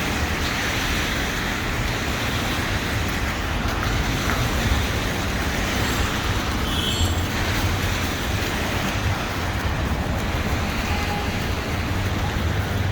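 City street traffic: a steady hum of passing cars and other road vehicles, with a brief high-pitched squeak about seven seconds in.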